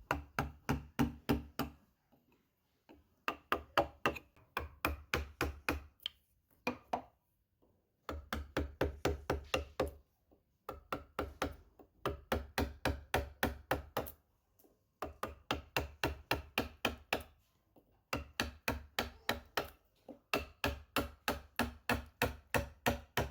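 Carving chisel being driven into wood with a mallet: quick, even taps several a second, in short runs with brief pauses between them.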